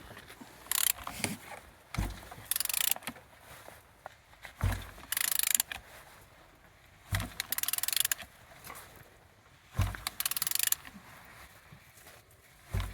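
Ratchet wrench turning the crankshaft of a removed Mercedes OM642 V6 diesel engine by hand: short bursts of rapid ratchet clicking about every two and a half seconds, each paired with a dull thump, as the engine is rotated to show it turns freely with strong compression.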